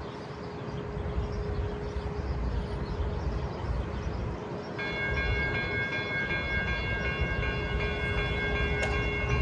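Union Pacific freight train approaching, its locomotives rumbling and growing louder. About five seconds in, a steady chord of high tones starts and holds.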